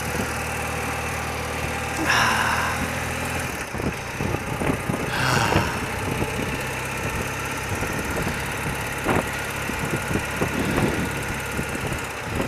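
Engine of a 30-year-old BMW motorcycle running at a steady speed, its pitch shifting slightly about four seconds in, with two brief swells of hiss around two and five seconds in.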